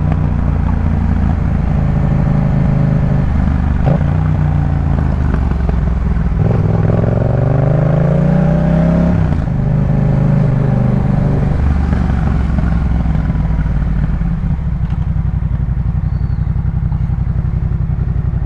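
Yamaha MT-07's 689 cc parallel-twin engine breathing through a Jeskap K4 full aftermarket exhaust, heard from the ridden bike. The revs rise and fall with gear changes, with one long rising pull in the middle that cuts off at a shift, then settle into a steady, lower note for the last few seconds.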